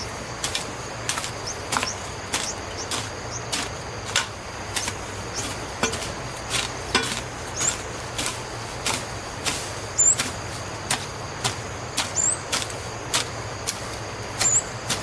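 A hand tool striking over and over in a steady rhythm, a little under two sharp strokes a second, over a steady high-pitched insect drone.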